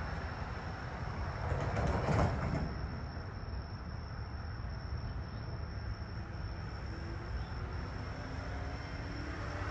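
Train running at a railway station: a steady low rumble with a brief louder swell about two seconds in.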